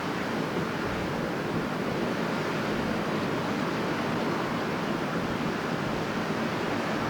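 Strong wind blowing steadily, a continuous even rush with no gusts or breaks.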